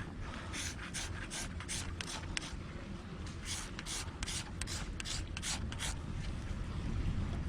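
Ferro rod (fire steel) being struck with a scraper, throwing sparks onto tinder to light a campfire: a series of quick, sharp scrapes in two runs, stopping about six seconds in.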